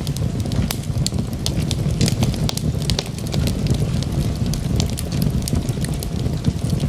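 Wood logs burning in a fireplace: a steady low rumble of flame with frequent sharp crackles and pops scattered throughout.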